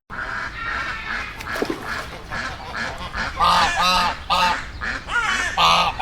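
A flock of geese honking: a run of short calls, getting louder and more frequent about halfway through, over a busy background of other birds calling.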